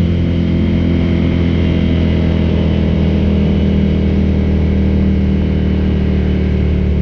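Ducati cafe racer's V-twin engine running at a steady speed, with a low, even exhaust note.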